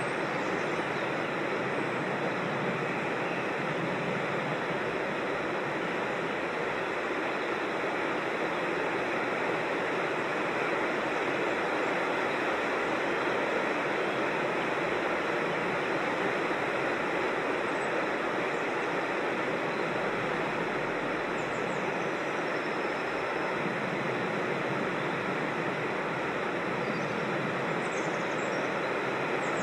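Creek water rushing over small falls and cascades, a steady, even rush. A few faint high bird chirps come through above it, mostly near the end.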